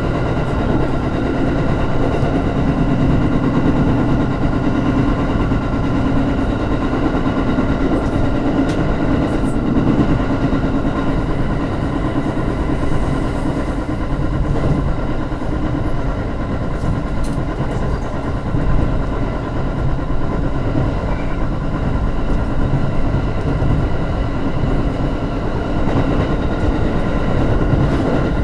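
Electric train running at speed, heard from inside its rear cab: a continuous rumble of wheels on rail with a steady hum of tones above it.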